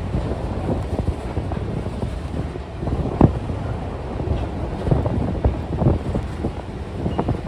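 A passing freight train, a steady low rumble with irregular knocks from the wheels and cars, mixed with wind buffeting the microphone.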